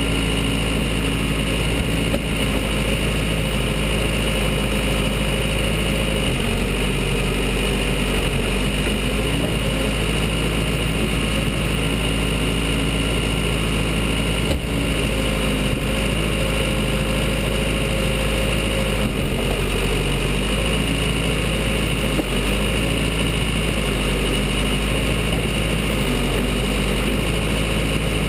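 Diesel engine of a Case 580 Super L backhoe running steadily, its pitch shifting slightly a few times as the machine works, with a couple of brief knocks.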